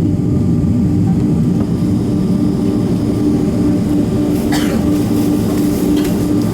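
Cabin noise of a Boeing 767-300 taxiing: a steady low rumble from the jet engines and airframe with a constant hum. There is a brief rattle about four and a half seconds in.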